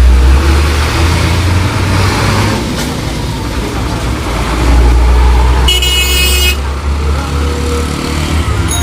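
Heavy truck's diesel engine rumbling as it drives past in traffic, swelling as it comes near. A short, high horn toot sounds about six seconds in.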